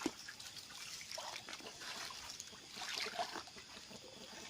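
Shallow river water trickling, with a few soft sloshes about a second and three seconds in.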